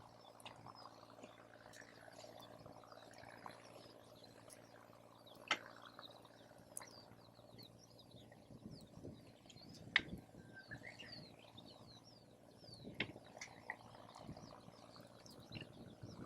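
Wood campfire crackling quietly, with a few sharp pops about five, ten and thirteen seconds in, against many faint chirping calls.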